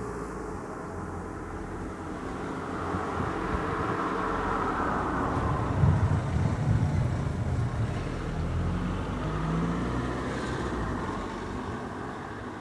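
Thunder rumbling: a long low roll that builds over a few seconds, is loudest and most uneven around the middle, then dies away.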